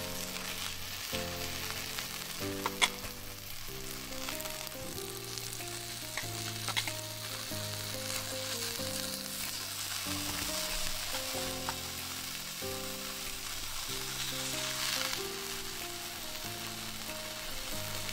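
Egg-and-flour batter frying in oil in tomato rings in a nonstick pan, sizzling steadily. Background music with changing low notes plays under it, and two sharp clicks stand out, about three and seven seconds in.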